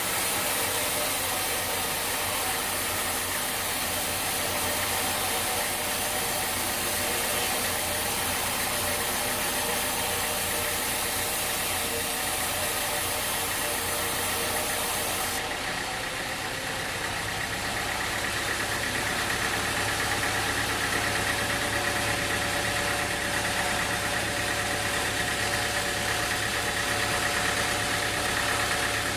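A mechanical engine running steadily with a continuous noisy hum. About halfway through, the high hiss drops away and the running sound changes.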